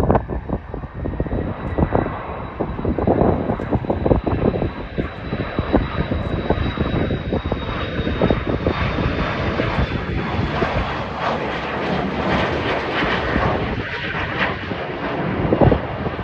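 Airliner jet engines running with a steady roar and a thin high whine that drifts slightly lower partway through.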